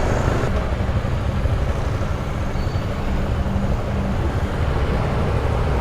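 Triumph Daytona sport bike's engine running at a steady pace while riding, heard over constant wind and road noise.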